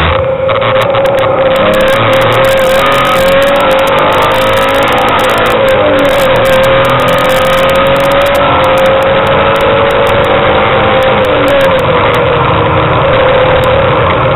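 Car engine running hard at high revs during a track lap. Its pitch climbs slowly and drops back a few times. Heavy wind and road rush on the low-mounted microphone.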